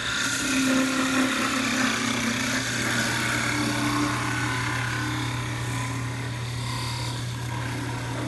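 Parting tool cutting into wood spinning on a lathe, a steady scraping hiss with a faint wavering whine, as the turning is parted off near its centre.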